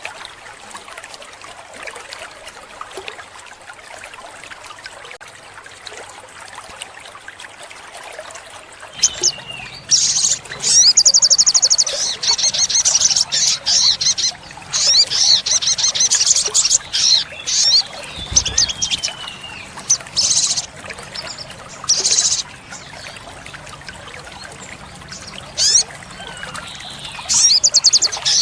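Olive-backed sunbird singing: after a steady background hiss, it starts about nine seconds in with high-pitched, rapid trills and sharp chips delivered in short spells, pausing and resuming near the end.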